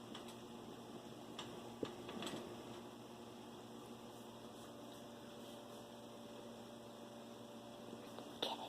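Faint, steady electrical hum with a few soft clicks in the first couple of seconds.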